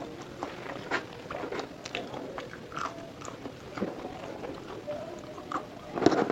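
Close-miked mouth sounds of a person eating fried food: chewing with many small crunching clicks, and one louder bite about six seconds in.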